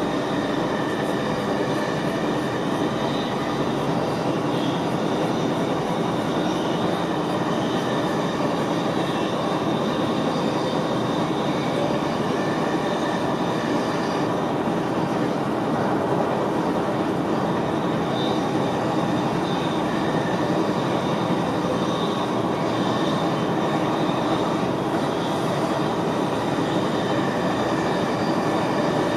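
Steady running noise of an NS VIRM double-deck electric train, heard inside the driver's cab: a constant rumble of wheels on rail with faint high steady tones over it.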